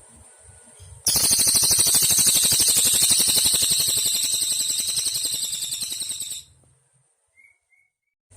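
Cililin (ijo mini) songbird singing one long, very rapid, high-pitched trill of about five seconds. It starts abruptly about a second in, fades a little and cuts off, followed by two faint short chirps.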